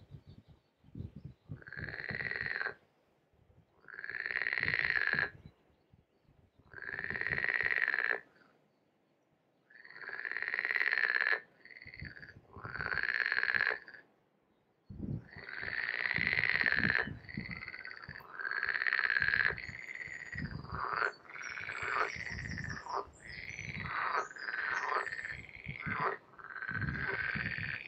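An animal calling over and over: pulsed, croaking calls about a second long, repeating every two to three seconds, then overlapping more thickly from about halfway through.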